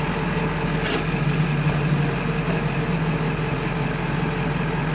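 1999 Ford F-450 crane truck's engine running steadily, with the PTO engaged to drive the crane's hydraulics. A single sharp click comes about a second in.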